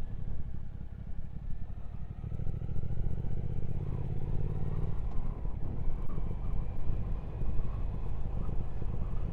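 Triumph Speed Twin 1200's parallel-twin engine running on the road, its note firmer and louder for a couple of seconds before easing about five seconds in.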